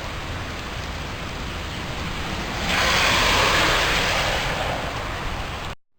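Heavy rain pouring steadily. A louder rushing hiss swells a little before halfway and eases off, and the sound cuts off abruptly just before the end.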